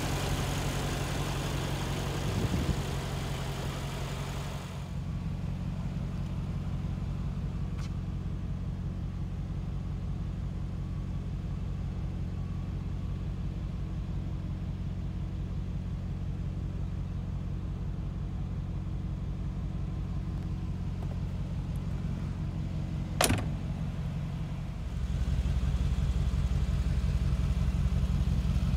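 The 2019 Mercedes-AMG G 63's twin-turbo 4.0-litre V8 idling steadily. There is a single sharp click late on, and the idle grows louder near the end.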